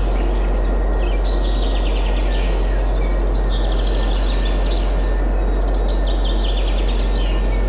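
Steady wind rushing with a deep constant rumble beneath it, while several songbirds trill and chirp in quick repeated phrases throughout.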